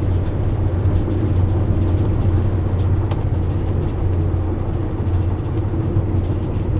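Steady low drone of a vehicle's engine and road noise, heard from inside the cab while driving at an even speed.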